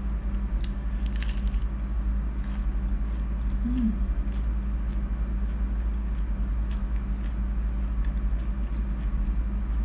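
Chewing and biting on squid close to the microphone, a few faint wet clicks here and there, over a steady low hum that is the loudest thing throughout.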